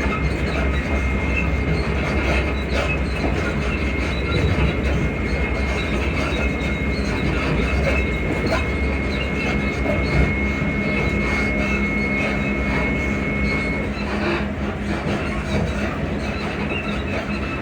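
Class 334 electric multiple unit running, a steady rumble and rattle of wheels and body, with a thin steady high squeal that stops about three quarters of the way through.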